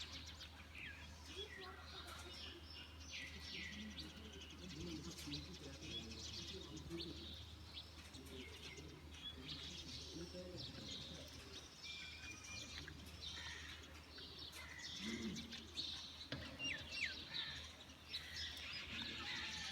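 Many small birds chirping and calling over one another in a continuous dawn chorus, with softer, lower calls underneath and a steady low hum.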